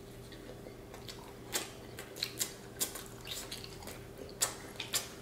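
Chewing of mouthfuls of hamburger with wet lip smacks and mouth clicks, irregular and starting about a second and a half in.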